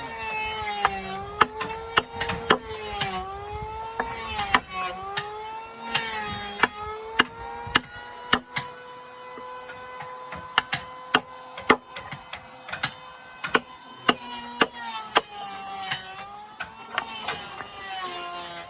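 Irregular sharp knocks and clicks of wood being worked, over a pitched tone with overtones that slowly dips and rises.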